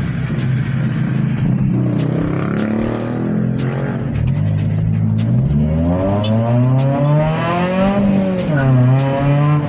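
Chevrolet Celta 1.0 VHC-E naturally aspirated four-cylinder engine, with a 4-into-1 header and a straight-through exhaust, heard from inside the car: running steadily at first, then revving up hard under acceleration from about six seconds in. Near the end the revs drop sharply and then climb again.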